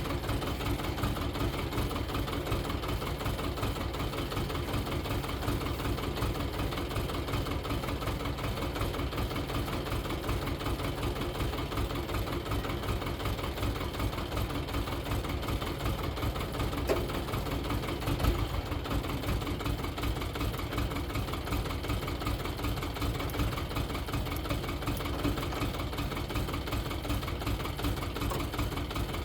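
Xingtai 220 mini-tractor's diesel engine running steadily at an even, unchanging speed, with the 1.3 m rotary tiller mounted behind it.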